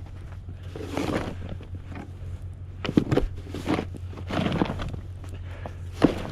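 Footsteps crunching in snow, irregular and about a second apart, over a steady low hum.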